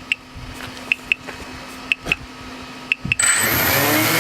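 Short double beeps repeat about once a second. About three seconds in, a multirotor drone's electric motors start all at once with a loud, steady whir.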